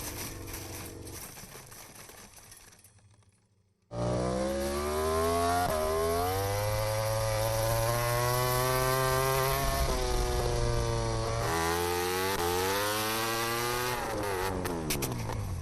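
MotoGP racing motorcycle engines. One fades out to near silence about three seconds in. Then another starts abruptly and loud, its pitch rising and falling repeatedly as the bike is revved hard and shifts gear.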